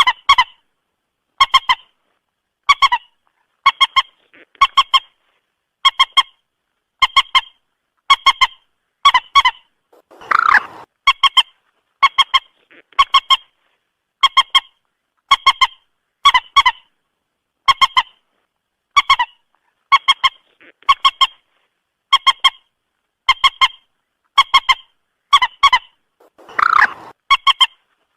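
Moorhen calling: short honking notes in quick clusters of two or three, repeated about every second and a quarter. Two longer, rougher calls come about ten seconds in and near the end. This is a recorded call repeated as a trapping lure.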